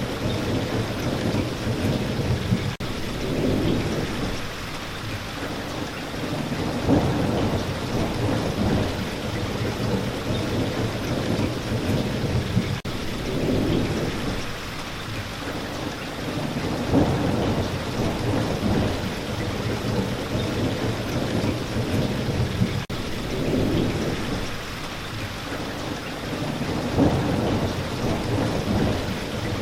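Steady, heavy rain, with a low rumble that swells and fades about every ten seconds. There is a brief dropout at the same ten-second spacing.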